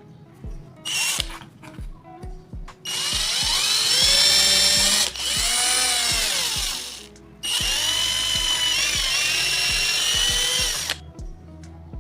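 A power tool's electric motor runs in three long bursts, a few seconds each, with a pitched whine that sags and recovers in the middle burst. Background music with a steady beat plays underneath.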